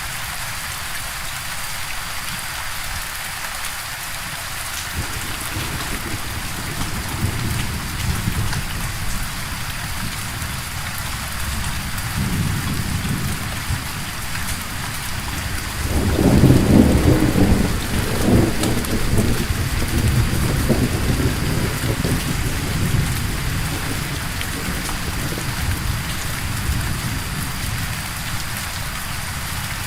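Steady rain with rolling thunder. A low rumble builds from about five seconds in, swells to its loudest peal around the middle, then rolls on and slowly fades under the rain.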